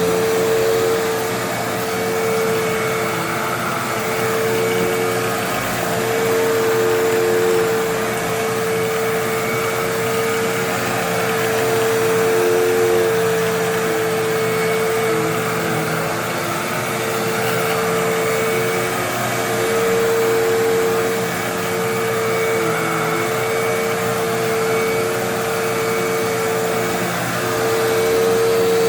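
Hoover WindTunnel Twin Chamber bagless upright vacuum cleaner running steadily with a motor whine, its loudness swelling and easing every few seconds as it is pushed back and forth over a mess.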